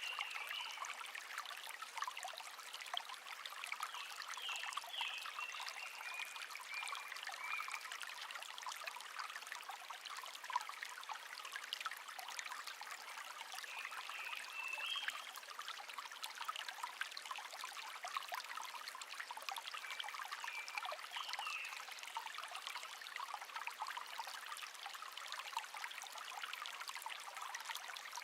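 A shallow stream trickling and babbling steadily over stones, with a bird chirping in short phrases a few times.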